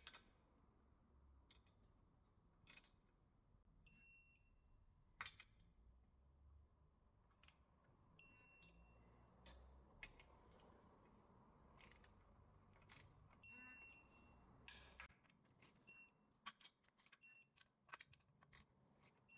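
Faint short beeps and light clicks from a torque tool set to 8 Nm as the steel sump's bolts are tightened one after another, the beeps coming every few seconds as each bolt reaches torque. A low hum runs underneath and stops about fifteen seconds in.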